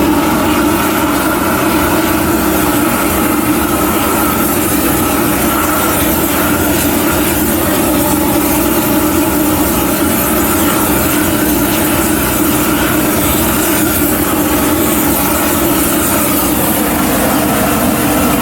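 Preheating torches heating a large steel pipe before welding, running with a steady loud roar.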